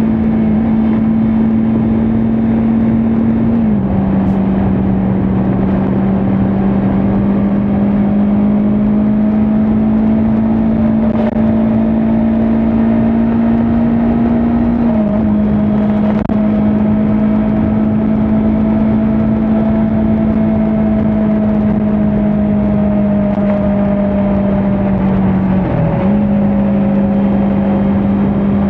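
Kawasaki Ninja 400 parallel-twin engine running at a steady cruise, heard over wind and road rush. Its note drops sharply in pitch about four seconds in and again about fifteen seconds in, climbs slowly in between, and dips briefly near the end.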